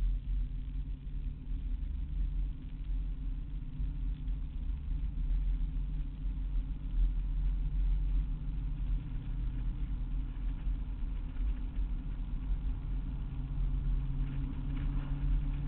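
An older car's engine running steadily at cruising speed, with road noise, heard from inside the cabin: a steady low drone with no marked changes in engine speed.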